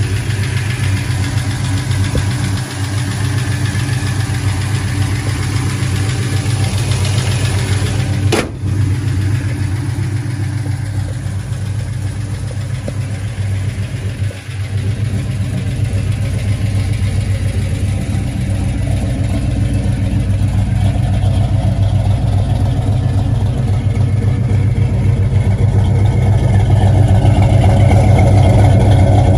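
The V8 of a 1970 Dodge Coronet Super Bee idling steadily, with one brief click about eight seconds in. The idle grows louder and fuller near the end as the tailpipe comes close.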